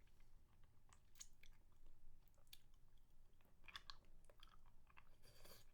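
Faint wet mouth clicks and smacks from licking and sucking a spicy mango lollipop, scattered irregularly, with a cluster about two thirds of the way in.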